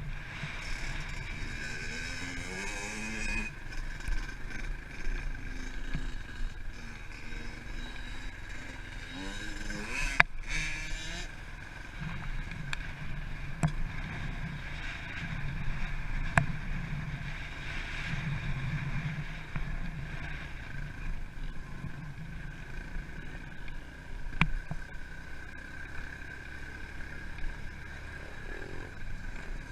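Pit bike engine running while ridden, revving up and down in pitch with the throttle, with a sharp knock about ten seconds in and another near the end.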